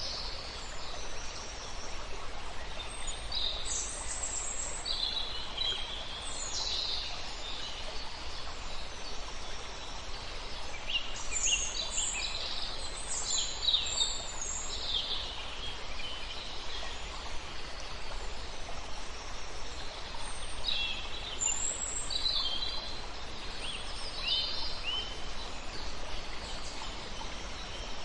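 Several songbirds singing, short high chirps and trills coming in clusters and busiest in three spells, over the steady hiss of a flowing river.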